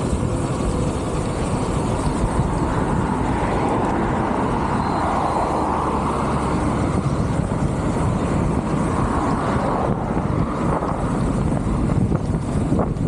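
Strong wind buffeting the microphone: a steady, loud rumbling noise, with a faint broader swell in the middle.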